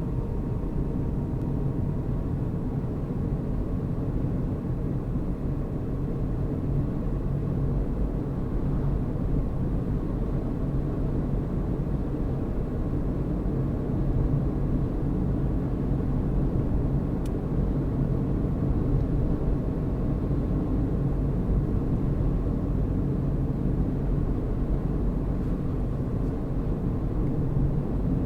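Car driving at a steady pace: a continuous low engine and road rumble.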